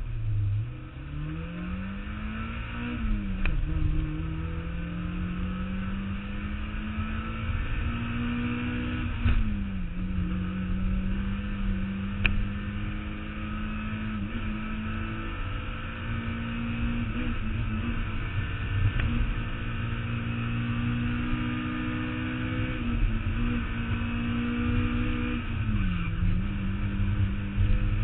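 Mazda Miata four-cylinder engine driven hard on a hillclimb run, revs climbing and then dropping at upshifts about 3 and 9 seconds in, then held high and fairly steady with a brief lift near the end, over road and wind noise.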